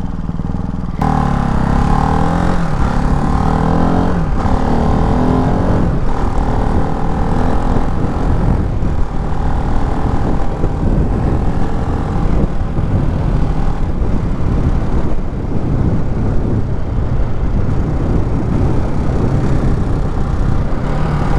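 Ducati Hypermotard 698 Mono's single-cylinder engine under way, pulling up in pitch and dropping back between gear changes in the first few seconds, then running at a steady speed.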